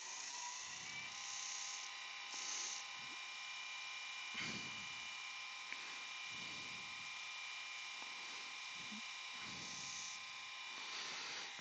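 Wood lathe motor running with a steady, fairly quiet whine of several even tones over a soft hiss, as the freshly waxed box spinning on it is buffed.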